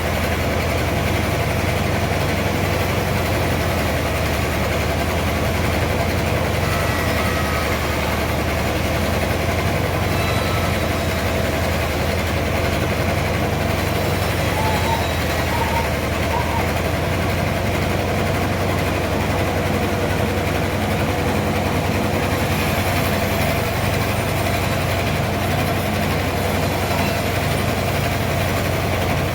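Sawmill machinery running steadily with an even, engine-like hum.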